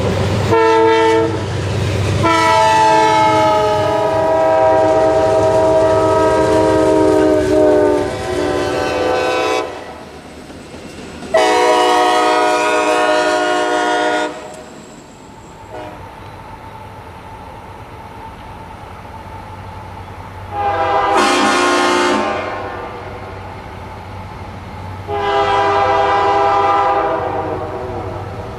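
Multi-chime air horn of a freight train's lead locomotive, a Southern Pacific GE AC4400CW, sounding the grade-crossing signal: two long blasts, a short one, then a long one. A steady rumble of the passing train runs beneath.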